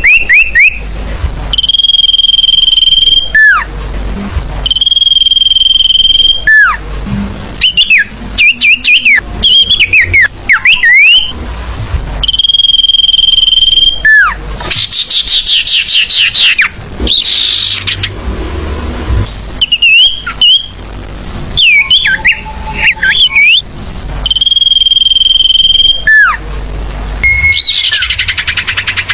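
Sirfu birdsong played as a lure call: long steady high whistles of about a second and a half, alternating with runs of quick rising and falling chirps and trills.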